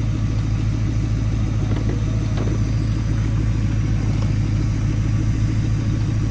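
Car engine idling steadily with an even low rumble, running on its alternator after being started with a borrowed battery that was then pulled back out.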